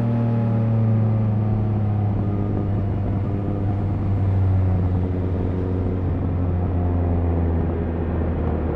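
Triumph Speed Triple RS 1050's inline three-cylinder engine running on a light or closed throttle after a hard rev. Its note is steady and sinks slowly as the revs fall.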